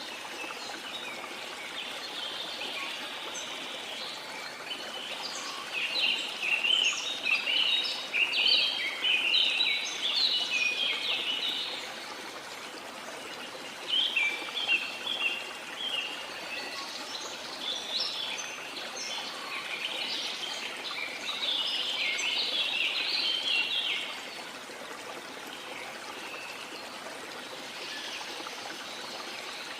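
Steady rush of a flowing river with many birds chirping over it. The birdsong comes in two long busy spells and drops away for the last few seconds, leaving the water alone.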